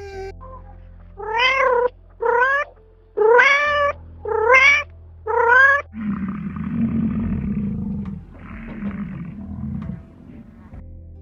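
A domestic cat meowing five times in quick succession, each meow rising then falling in pitch, followed by a low rough rumble lasting about four seconds.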